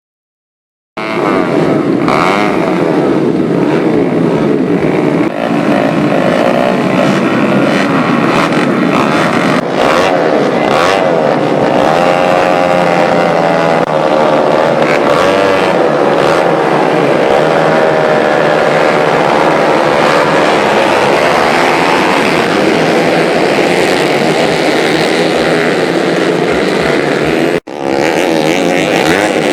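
Several motocross dirt bike engines revving as they race, their overlapping pitches rising and falling. The sound starts suddenly about a second in and breaks off for a moment near the end.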